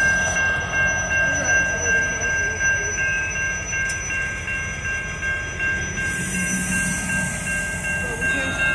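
Diesel freight locomotive moving slowly over a grade crossing, its engine rumbling steadily with a bell ringing throughout. A hiss comes in about six seconds in.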